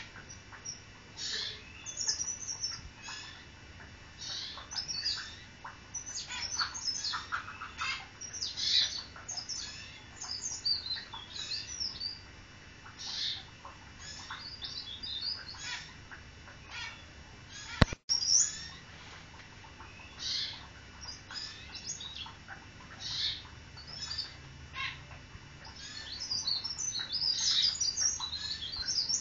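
A small songbird known in Indonesia as blereng or cikrak daun calls in repeated short, high chirps and twittering phrases, busiest near the end. A single sharp click sounds about 18 seconds in.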